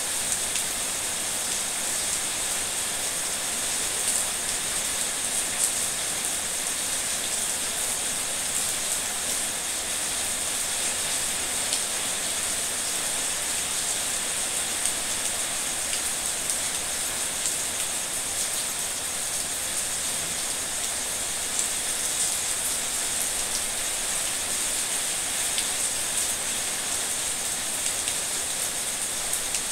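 Steady heavy rain: a constant hiss with scattered sharper drop ticks.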